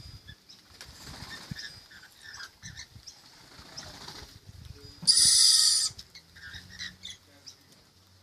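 Birds chattering and fluttering at close range, with one loud, harsh screech just under a second long about five seconds in.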